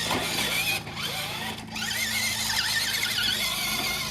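Battery-powered RC monster truck's electric motor and drivetrain whining, the pitch wavering up and down with the throttle and dropping out briefly twice.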